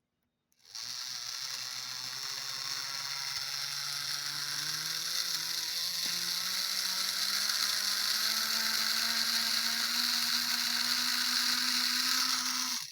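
Model U-boat diesel locomotive's electric motor and gears running, with a strong high whir over a low motor hum that slowly rises in pitch. It starts about half a second in and cuts off suddenly near the end.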